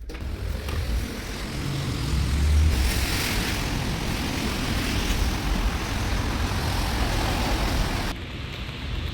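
Road traffic on a wet street: a steady low rumble, with a car's tyres hissing past on the wet road about two to three seconds in.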